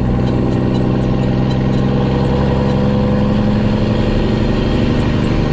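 Heavy diesel engine running steadily, its pitch climbing slowly for a couple of seconds midway.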